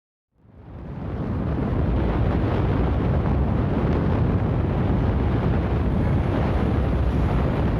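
Wind buffeting the microphone, a steady rushing noise heaviest in the low end, fading in over about the first second and then holding level.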